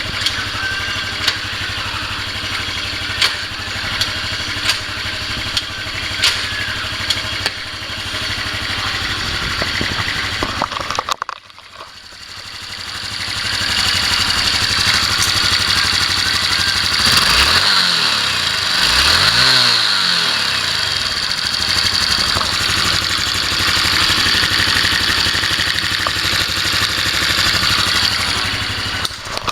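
Honda Cross Cub 110's JA10E single-cylinder four-stroke engine running for a check. It idles steadily with light clicking, dips briefly about eleven seconds in, then picks up, is revved up and down a few times and holds at a higher speed.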